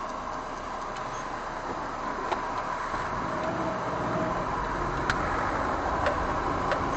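Steady road and engine noise of a moving car, slowly growing louder, with a single sharp click about five seconds in.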